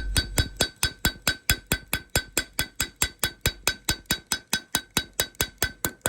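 Rapid, even light taps of a metal tool on a refrigeration compressor's head, about five a second, each with a short metallic ring: tapping along the edge to crack loose and break off the old stuck gasket.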